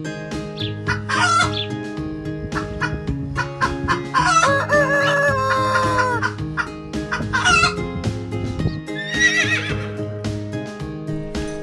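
Chickens calling over steady background music: a rooster gives one long held crow about four seconds in, with shorter clucks and calls before and after it.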